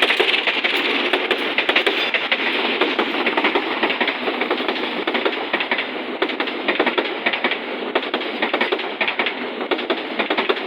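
Passenger train rolling past, its wheels clattering on the rails in a steady, dense run of clicks and rattles.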